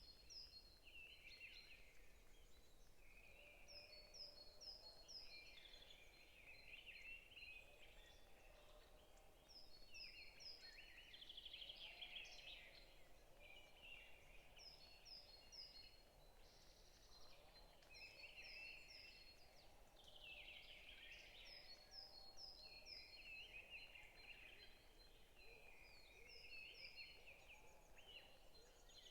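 Several forest birds singing, faint. One repeats a short phrase of four or five quick high notes every several seconds, while others warble in lower, more varied phrases.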